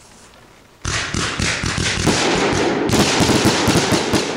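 Fireworks going off: a dense, fast run of sharp cracks and pops starts abruptly about a second in and keeps going loudly.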